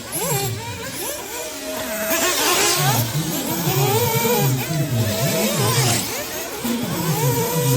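Several 1/8-scale nitro off-road RC buggies' small two-stroke glow engines racing, their pitches overlapping and rising and falling as they rev up and back off around the track.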